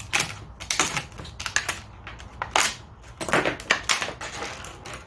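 Handling clatter: irregular sharp clicks and short rattles of small hard parts, several a second, with quieter gaps between.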